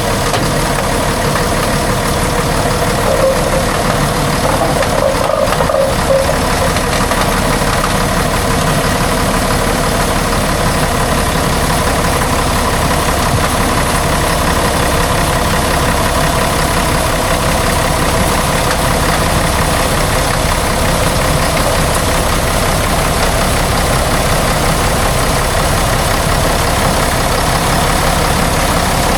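Heavy truck engine running steadily, with no change in pace.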